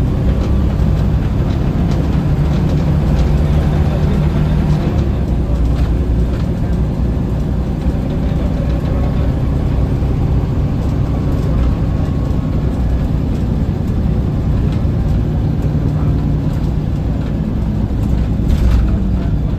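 Scania L94UB city bus heard on board while driving: a steady low diesel engine drone with road noise, its tone shifting a little as the speed changes. A brief rattle comes near the end.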